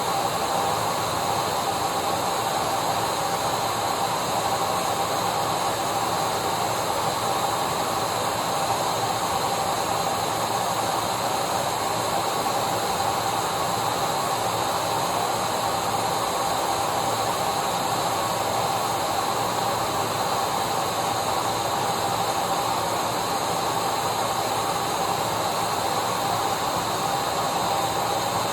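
Vacuum cleaner running steadily: a constant motor whine over an even rushing hiss.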